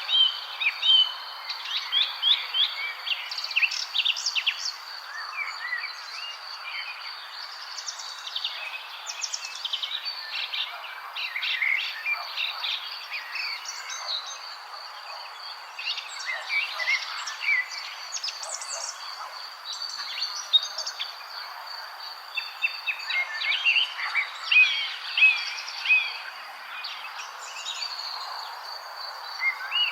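Several small birds chirping and calling in clusters of short, quick notes and trills that come and go, over a constant high, thin tone and a soft steady hiss.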